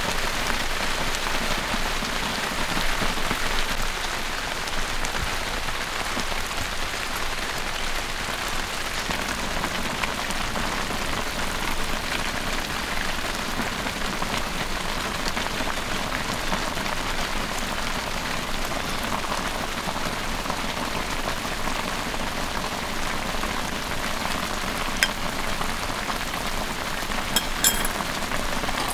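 Heavy rain falling steadily, with a few sharp clicks near the end.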